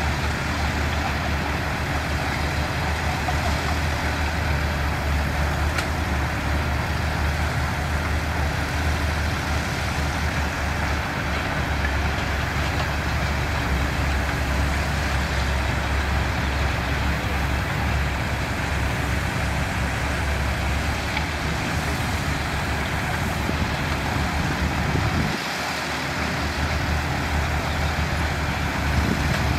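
Diesel engines of heavy construction machinery running steadily with a low drone. The deepest part of the drone drops away briefly about 25 seconds in.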